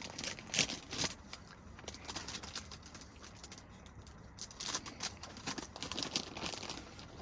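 Rustling and light clicking of hands handling food and packaging while cheese is put onto a plate of noodles. The sounds come in two spells, one at the start and another about four and a half seconds in.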